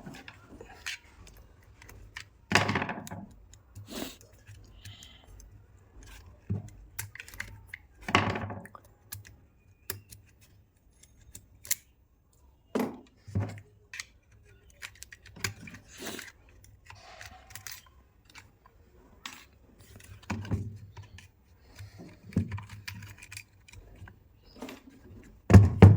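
Metal parts of a 2-26 hammer drill clinking and knocking as it is taken apart by hand: scattered small clicks and clinks with a handful of louder knocks, the loudest near the end.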